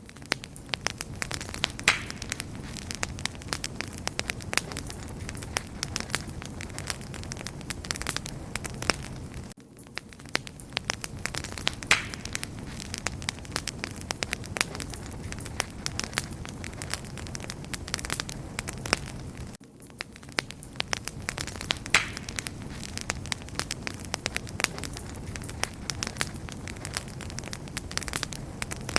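Wood fire burning and crackling steadily: a dense run of small pops and snaps over a low rumble, with a louder pop about every ten seconds.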